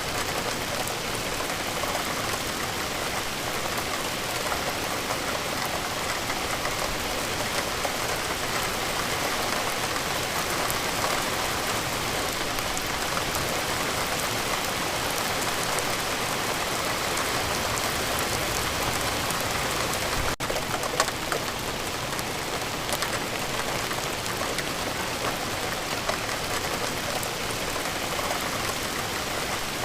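Steady rain falling: a dense, even hiss with many fine drop ticks. It cuts out for an instant about two-thirds of the way through.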